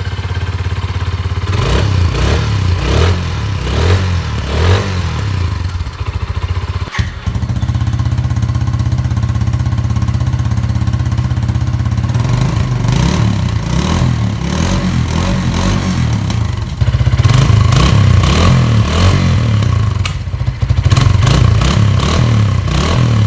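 Suzuki TU250's single-cylinder engine running and being revved through the stock exhaust, with the revs rising and falling several times in the first few seconds. After a sudden break about seven seconds in, it idles and revs through a Blue Collar Bobber aftermarket muffler with a meatier, more aggressive note, getting louder about two-thirds of the way through.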